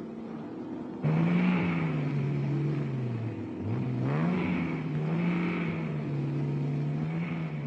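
Sports car engine running hard at varying revs, coming in abruptly about a second in; about halfway its pitch drops sharply and climbs straight back up, as with a gear change, then holds and eases off.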